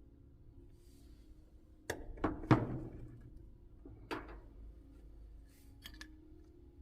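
Several sharp knocks and clatters, as of parts or tools being set down. The loudest comes about two and a half seconds in and rings on briefly, another follows a second and a half later, and two small clicks come near the end.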